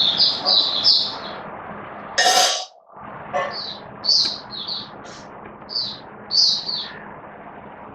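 White-eye (mata puteh) singing: quick runs of high chirping notes, a few at a time with short pauses between. About two seconds in, a short burst of noise is followed by a moment of silence.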